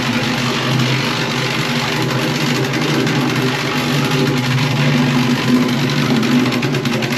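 Plate compactor's small petrol engine running steadily as it is worked over a stone bed, packing the stones tight ahead of a concrete slab.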